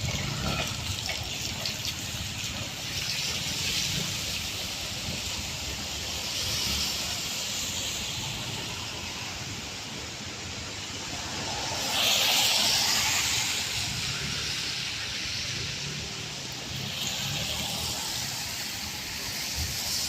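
Cars passing on a rain-wet road, their tyres hissing through the water in several swells, the loudest pass about twelve seconds in.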